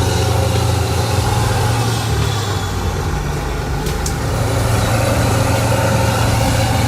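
Heavy vehicle engine running steadily at a constant speed.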